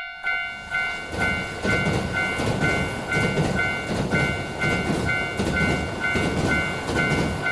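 A train passing through a level crossing, its rumble and wheel clatter starting abruptly, growing louder about a second in and cutting off suddenly near the end. Throughout, the crossing's warning bell keeps ringing about twice a second.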